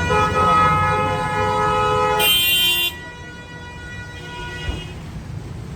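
Vehicle horn blaring several pitches at once for about three seconds, a shriller tone joining just before it cuts off; low traffic rumble underneath.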